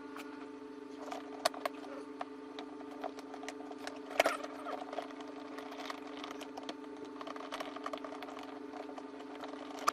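Small irregular clicks, taps and rattles of screws and plastic parts being handled and fitted during assembly of a ride-on toy car, with the sharpest knock about four seconds in, over a steady background hum.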